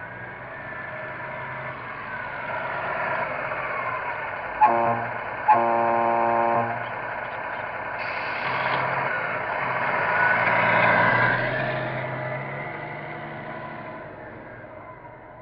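Tamiya 1/14 Freightliner RC semi's electronic sound unit playing a truck diesel engine note that rises and falls with the throttle. About five seconds in it sounds its horn twice: a short blast, then one lasting about a second.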